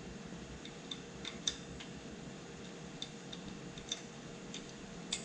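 Bicycle disc brake rotor ticking lightly against the pad as the wheel spins, a scattering of faint, sharp ticks roughly half a second to a second apart: the rotor is slightly bent.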